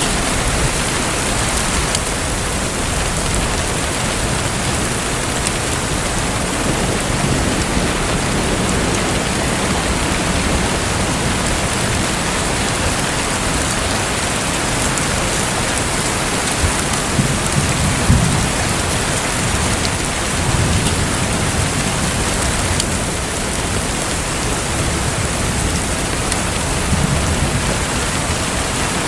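Steady, rain-like hiss of water, with a few soft low rumbles swelling up and fading, the strongest a little past the middle.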